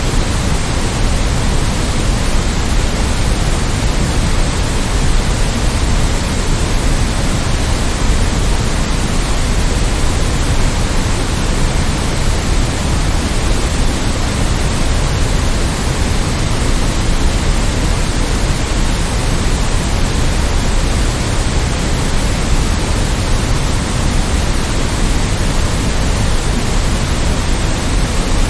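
Steady, unchanging white noise of a sleep noise track: an even hiss across all pitches, fuller in the low end.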